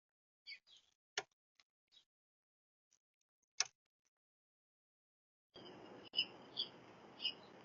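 Backyard feeder songbird sounds: a few short sharp clicks and faint high chirps, then, after a cut about five and a half seconds in, a bird giving short high calls about every half second to a second over a steady hiss.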